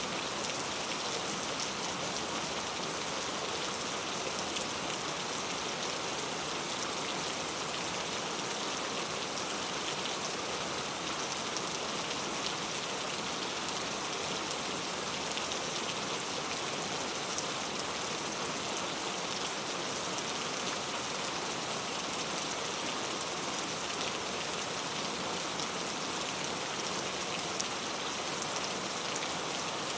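Steady rain falling: an even hiss of many drops with scattered faint patters, unchanging throughout.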